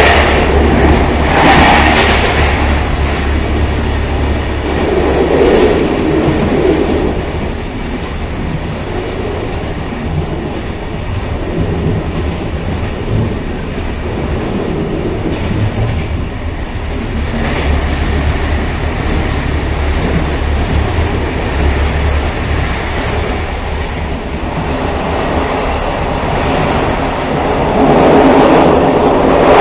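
Railcar rolling along the track: a steady rumble with a low hum underneath, swelling louder a few times and loudest near the end.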